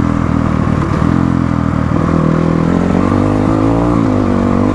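Motorcycle engine running as the bike rides along, its pitch shifting with the throttle and dipping, then climbing again, near the end.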